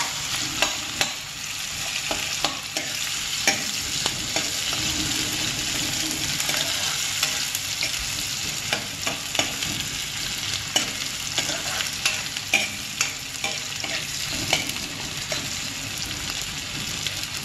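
Sliced onions sizzling in hot oil in a steel kadhai, stirred with a spoon that scrapes and clicks against the pan many times.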